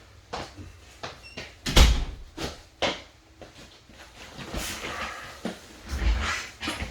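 Cardboard boxes of trading cards being handled on a table: a run of knocks and taps, with heavier thumps about two seconds in and near the end, and scraping as boxes slide.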